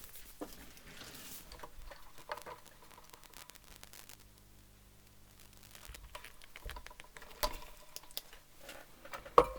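Light scratching, rustling and small clicks of wire and small tools being handled at close range, with a sharper click near the end.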